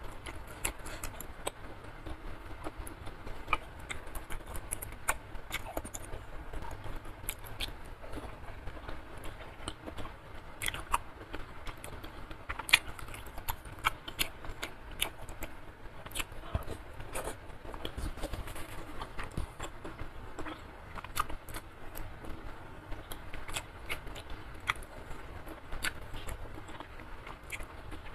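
Close-miked chewing and slurping of soupy instant curry noodles and chewy beef skin, with many short, sharp wet mouth clicks and smacks throughout.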